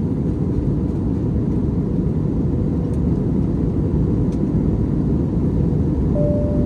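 Steady in-flight cabin noise of an Airbus A321neo heard from a rear window seat: an even rumble of engine and airflow. A faint steady tone comes in near the end.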